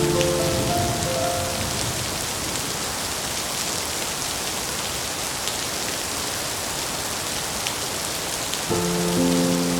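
Steady rain falling on a surface, an even hiss with occasional faint drop ticks. Soft sustained musical notes fade out just after the start and come back near the end.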